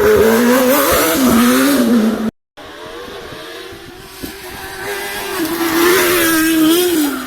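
Rally car engines at full stage pace: one car revving up and down through gear changes, then, after a sudden cut, another car approaching, getting louder and dropping in pitch as it passes near the end.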